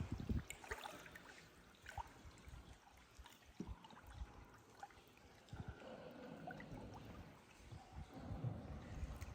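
Faint water sounds from a paddled tour boat: soft splashes and trickles from the paddle, with scattered small knocks and clicks.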